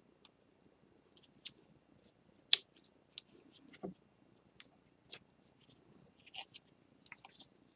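Irregular small clicks and scratchy ticks of hands and tools working on the pieces of a broken ceramic bowl. The loudest is a sharp click about two and a half seconds in, followed by a duller knock a little over a second later.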